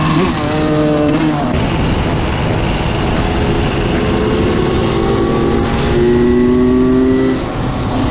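Motorcycle engine running under way, its revs climbing slowly for several seconds and then dropping near the end as the throttle is eased off, with heavy wind rush over the sound.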